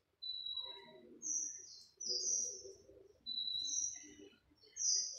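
A bird chirping: short, clear, high whistled notes repeated about once a second, some stepping down in pitch.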